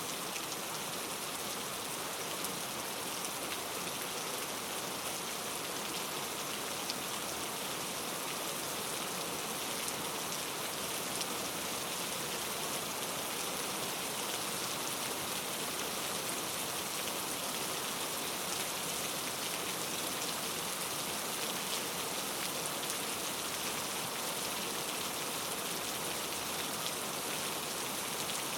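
Steady rain falling, an even hiss of many small drops with faint drop ticks, with no thunder.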